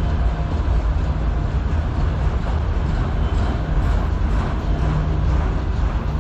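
CN manifest freight train's cars rolling past on the rails: a loud, steady rumble.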